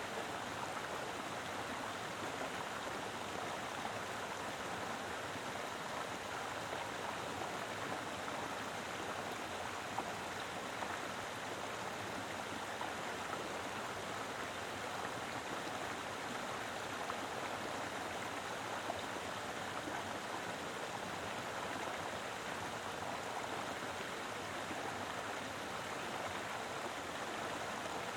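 A mountain river flowing steadily over rocks: an even rush of water with no let-up.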